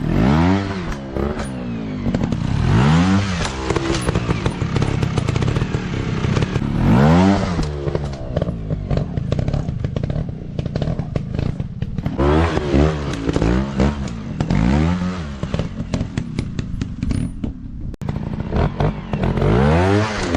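Dirt bike engines revving hard over and over, the pitch climbing and dropping every second or two, with clattering knocks and scrapes mixed in.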